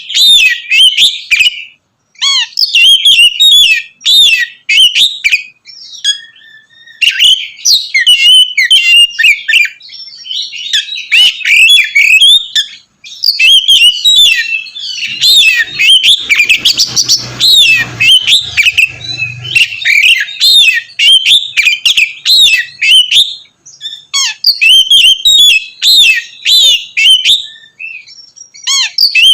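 Oriental magpie-robin singing loud, rapid, varied song phrases in long runs, broken by a few short pauses.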